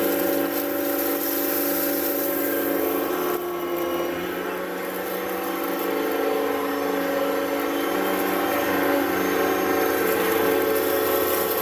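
Upright vacuum cleaner running steadily: a motor hum and whine with a constant pitch over airflow noise. About three and a half seconds in, the sound dips slightly and its hiss softens.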